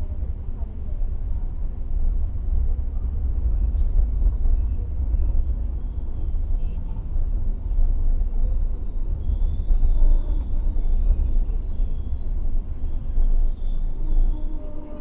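Passenger train running, a steady heavy low rumble. Faint music begins to come in near the end.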